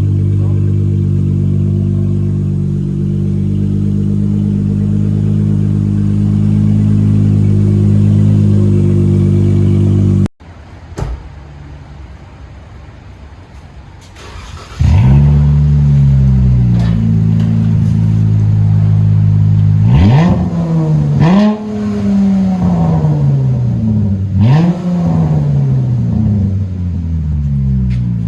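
2016 Dodge Charger SXT's 3.6-litre V6 running through a muffler-delete (dumped mufflers) dual exhaust: a steady idle, then the sound drops away for about four seconds. It comes back with a start-up flare that falls to idle, then three quick blips of the throttle, each rising sharply and falling back.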